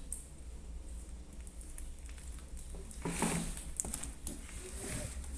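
Hands kneading a large mass of soft, sticky slime: scattered wet squelches and small clicking pops, with a louder squish about three seconds in.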